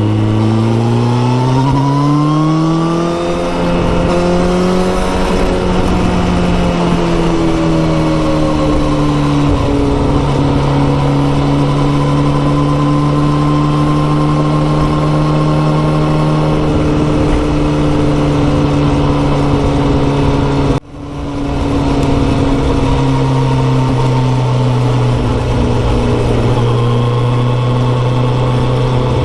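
Kawasaki ZX14R motorcycle's inline-four engine through a Yoshimura exhaust, rising in pitch as it accelerates over the first few seconds, then settling into a steady cruise. About two-thirds of the way through the sound cuts out for a moment and comes straight back.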